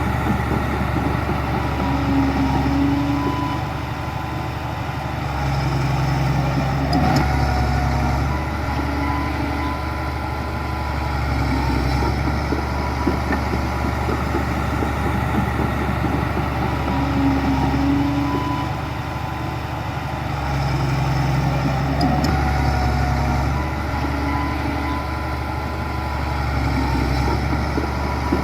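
Heavy diesel engine of earthmoving machinery running steadily, its loudness swelling and easing every few seconds.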